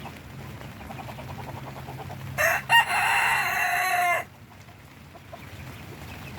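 A rooster crows once, loud and about two seconds long, starting about two and a half seconds in. Soft clucking from the other fowl comes before and after the crow.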